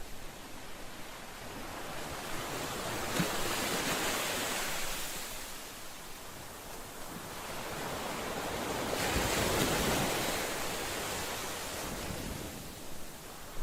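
Ocean waves breaking on a shore, a steady wash of surf that swells into two slow surges, one a few seconds in and a louder one after about nine seconds, each fading back.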